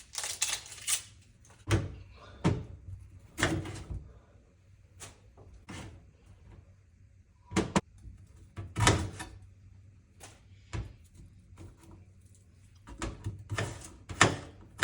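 Kitchen knife chopping an onion into large chunks on a cutting board: irregular sharp knocks, roughly one every second or so, with short pauses between cuts.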